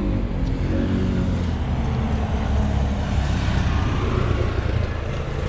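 A motor vehicle engine running close by, its pitch easing slightly downward over the first two or three seconds, over a steady outdoor rumble.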